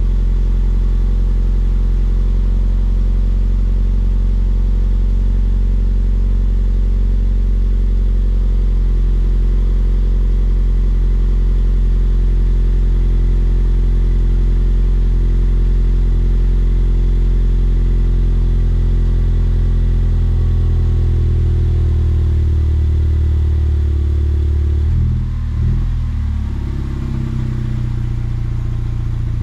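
2016 Lexus IS200t's 2.0-litre turbocharged four-cylinder engine idling steadily through an axle-back muffler-delete exhaust. Near the end there is a brief throttle blip, a quick rise and fall in pitch, before it settles back to idle.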